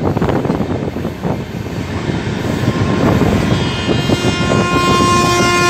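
Rumbling noise of a train running at speed, heard from beside the locomotive. About three and a half seconds in, a train horn sounds one long steady blast that is still going at the end.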